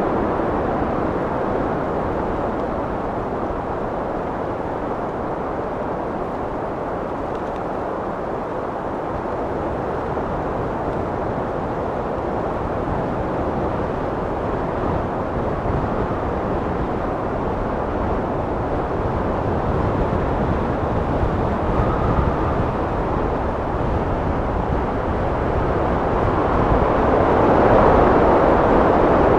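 Wind blowing steadily in a low rushing wash, swelling into a louder gust near the end.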